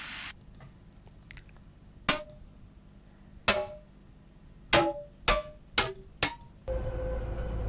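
Sound samples being previewed one after another in a music production program's browser: a short hiss cuts off at the start, then six separate short percussive clanks with a brief pitched ring, and near the end a steady held tone over a low rumble begins.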